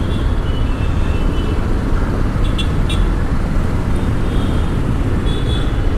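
Steady rumble of a motorcycle ride through city traffic: wind on the rider's camera mic, the motorcycle's engine and surrounding road traffic.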